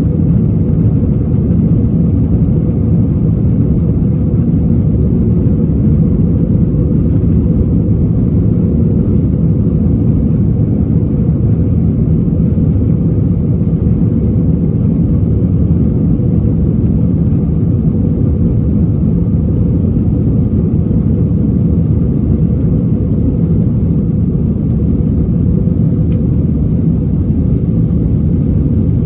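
Steady low drone of an Airbus A321's engines and airflow heard inside the passenger cabin, unchanging throughout.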